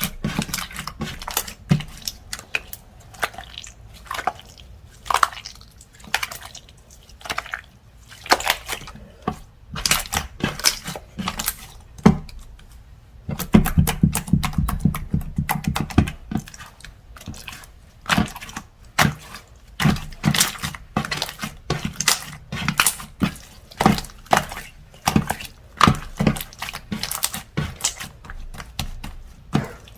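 Slime being squished and poked by hand, making a quick irregular run of sticky clicks and pops, with a denser, fuller squishing stretch about halfway through.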